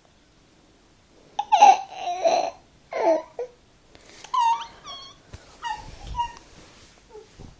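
Baby making funny vocal noises: a few loud cries with bending pitch, then a run of shorter, higher squeaks.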